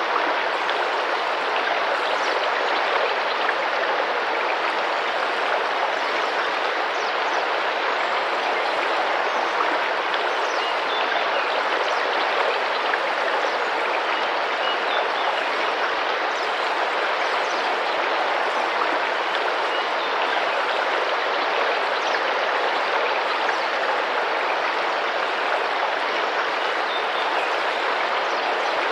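Tropical rainforest river running and splashing gently in a steady, even rush of water.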